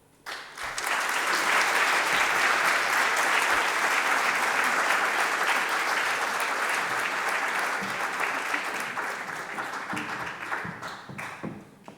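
Audience applauding at the end of a song: the clapping breaks out suddenly, holds steady and dies away near the end.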